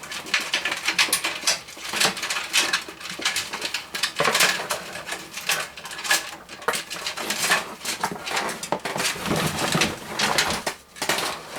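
Fan cables rustling and scraping against a PC case, with many light, irregular clicks and taps as the wires are pushed through a hole.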